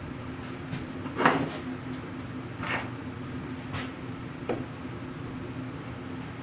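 Four short knocks and clinks of small parts and hardware being handled during reassembly of a wooden machinist chest, the loudest about a second in, over a steady hum.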